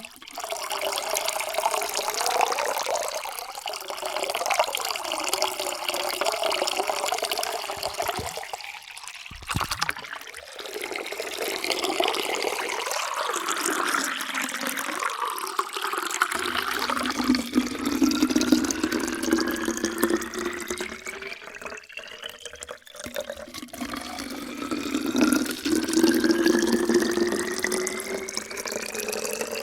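Water pouring steadily into a container, stopping briefly twice. In the later pours a ringing tone rises in pitch as the container fills.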